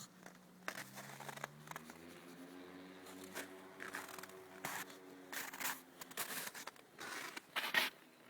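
Land Rover Defender 110 Td4 diesel engine on a cold start at −5 °C, its low note rising in pitch from about a second in and easing back down after a few seconds. Crackling and rustling handling noises sound over it.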